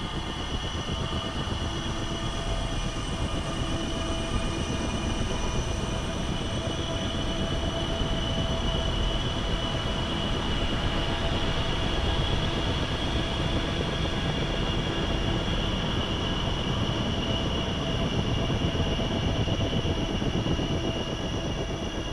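Flying drone buzzing steadily, with a high whine over a low rumble.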